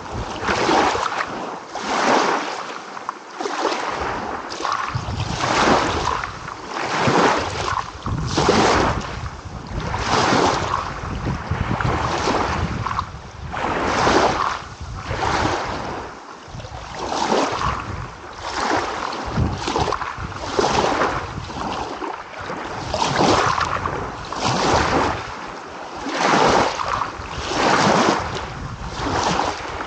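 Waves washing in on the shore, the surf swelling and falling back about every two seconds in an unbroken hiss.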